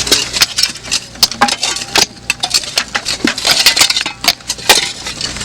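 Digging tools clinking and knocking against rocks and gravel, in quick, irregular strikes, as hardpack is broken up. A low, steady engine hum runs underneath.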